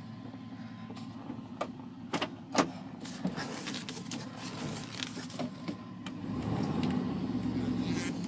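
1997 Chevy truck engine running through true dual straight-pipe exhausts while being driven, with a few sharp clicks and knocks about two seconds in. The engine rumble grows louder over the last two seconds as it is revved a little.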